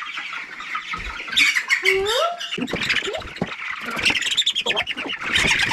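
A flock of young meat chickens squawking in a dense, overlapping chorus of short, harsh calls as they are caught and handled for moving.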